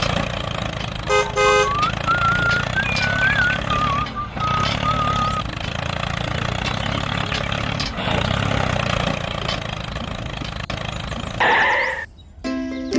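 Homemade mini tractor's small engine running steadily, with a short horn toot about a second in and a wavering whistle-like tone for a few seconds after it. The running stops near the end and music begins.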